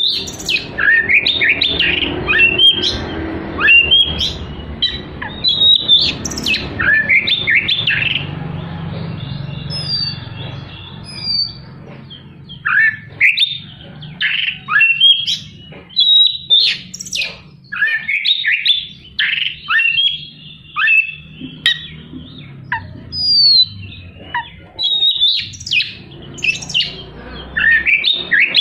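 Oriental magpie-robin (kacer) singing hard in rapid runs of sharp, falling whistled notes, a loud full song packed with harsh rapid-fire phrases. The song eases for a few seconds about a third of the way in and again near the end before picking back up.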